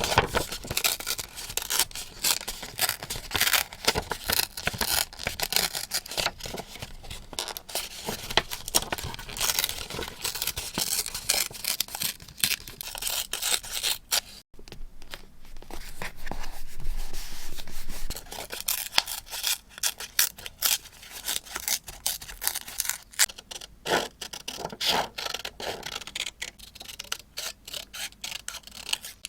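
Paper being handled for journal decorating: crisp rustling, rubbing and tearing of paper with scissor snips, a dense run of small sharp sounds. A steadier scraping rub lasts about two seconds a little past the middle.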